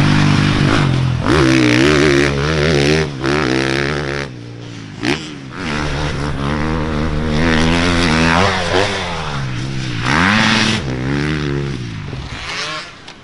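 Dirt bike engine revving up and down, its pitch rising and falling several times as the rider accelerates and shifts. It drops back about four seconds in, picks up again, and fades near the end.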